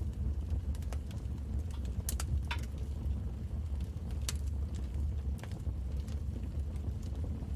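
Wood fire in a fireplace crackling: a few sharp pops over a steady low rumble of the burning fire.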